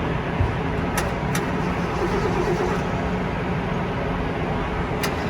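Steady background din of a busy car-show hall, with a low hum running under it and three sharp clicks: two close together about a second in, one near the end.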